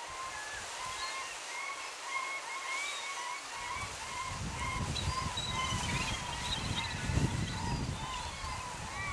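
A bird chirping over and over in quick succession, its short calls running on without a break, over the rush of water from the creek's falls. Gusty low rumble, like wind on the microphone, builds from about halfway through.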